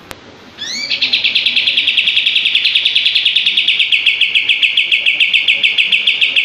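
Kapas tembak bird singing its 'tembak' song: a few quick rising notes, then a long, very fast and even trill of rapid repeated notes, about eight to ten a second, lasting some six seconds.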